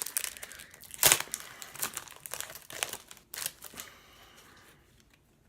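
A trading card pack's wrapper crinkling and being torn open, a run of sharp crackles with the loudest about a second in, dying away after about four seconds.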